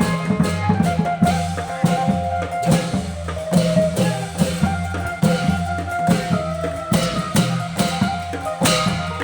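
Thai klong yao long-drum ensemble playing: drums beating a fast, steady rhythm with a sustained melody line over it.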